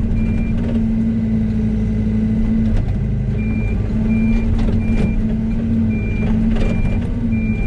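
Yanmar ViO80 excavator's diesel engine running steadily while its travel alarm beeps evenly as the machine tracks. The beeping stops about half a second in and starts again a little after three seconds, with a few short knocks.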